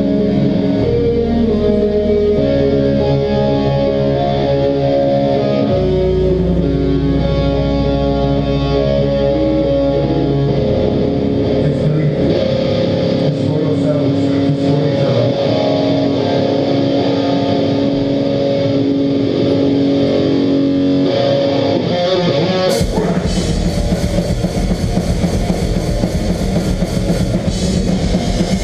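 Live melodic hardcore band: electric guitars ring out sustained, effects-laden chords over bass notes, then near the end the drums and cymbals crash in with the full band at heavy volume.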